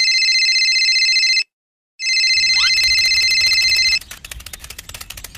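Telephone ringing twice, each ring about two seconds long with a short pause between. A faint rapid clicking follows after the second ring stops.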